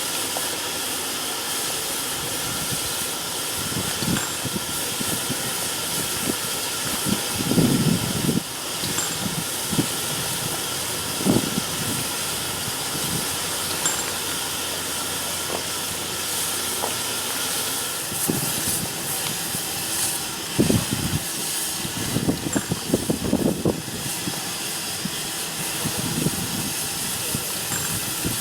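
Steam locomotive standing in steam, giving off a steady hiss, with a few irregular low thumps and knocks, most of them in a cluster in the second half.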